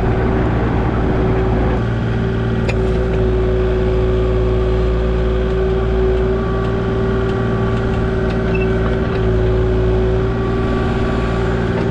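Diesel engine of compact earthmoving equipment running steadily at a constant speed, with a steady whine over the engine note.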